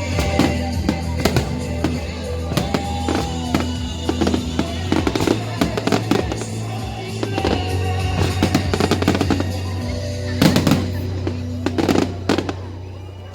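Fireworks display: a long run of sharp bangs and crackles, the loudest two near the end, over background music with a steady low bass tone.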